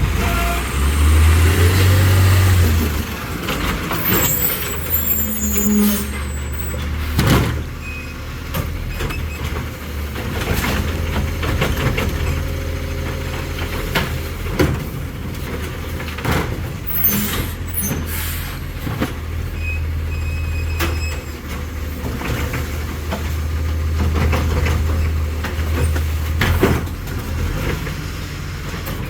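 Autocar ACX New Way Sidewinder side-loader garbage truck's engine running, rising in pitch near the start, with repeated short knocks and clanks and several brief air-brake hisses.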